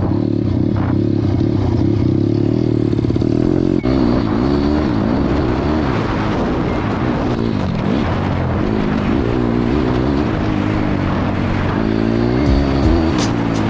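Pit bike engine being ridden hard, revving up and down, its pitch rising and falling over and over with throttle and gear changes.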